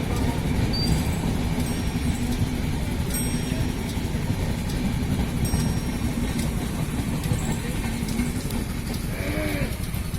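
Steady low rumble of an Indian train running on the track, with a few faint brief high squeaks and a short wavering call about nine seconds in.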